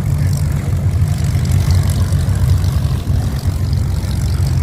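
Supermarine Spitfire V12 piston engines running at low taxiing power, a loud, steady, deep rumble with a rapid uneven beat.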